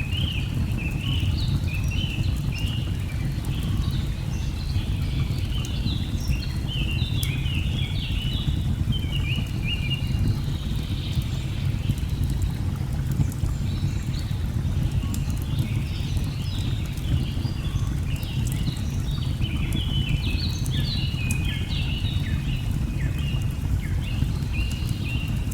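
Nature ambience: a steady low rush of falling water under many birds chirping and twittering continuously, with a few faint fire crackles.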